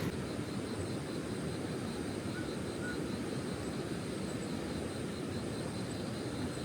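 Steady rushing of a fast mountain stream's rapids, an even low rumble of water.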